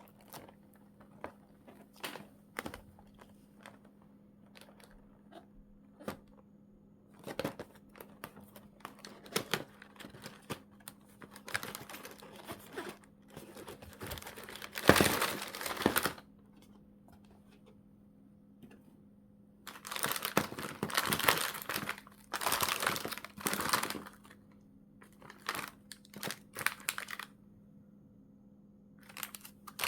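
Plastic packaging bags crinkling and rustling as they are handled and opened, in irregular bursts with quiet pauses; the loudest crinkling comes about halfway through and again for a few seconds later on. A faint steady low hum sits underneath.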